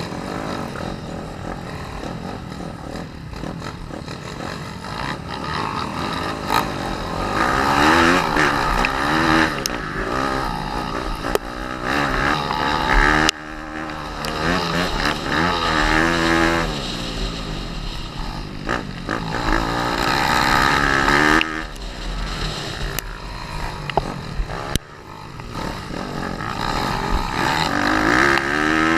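Pit bike's small four-stroke single-cylinder engine revving hard and falling back again and again as it is ridden round a motocross track, with the throttle shut off abruptly a few times.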